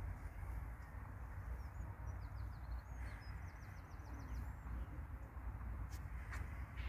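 Small bird chirping high, with one quick run of repeated notes midway, over a low rumble of wind on the microphone; a few sharp clicks near the end.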